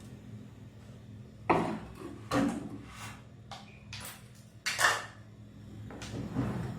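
Handling of kitchen dishes: about six separate knocks and clinks of a bowl and spoon being moved and set down, the loudest near the end of the second third.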